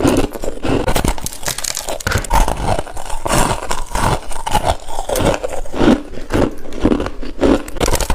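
Hard crushed ice being bitten and chewed close to the microphone: loud, irregular crunches, several a second.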